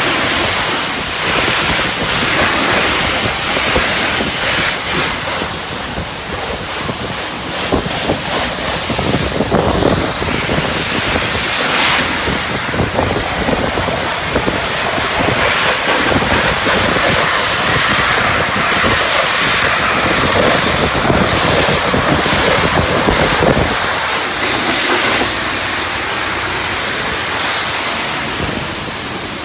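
High-pressure wash wand at a self-service car wash spraying water onto a car: a loud, steady hiss of the jet with water spattering off the bodywork. The deeper part of the sound thins out and the level dips a little near the end.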